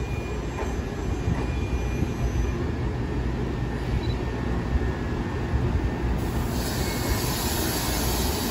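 New Jersey Transit electric commuter train of single-level stainless-steel cars rolling slowly into the station, a steady low rumble of wheels on rail. About six seconds in, a high hiss from the wheels joins the rumble.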